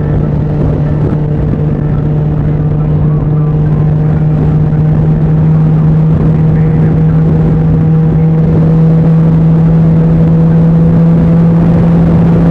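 Can-Am Ryker three-wheeler's engine running at a steady cruise: a constant drone whose pitch creeps up slightly, getting a little louder past the middle.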